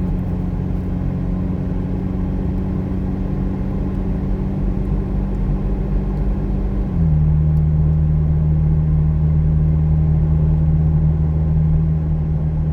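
McLaren Artura's twin-turbo V6 running at steady low speed, a constant engine hum. About seven seconds in, the note steps a little lower in pitch and grows slightly louder.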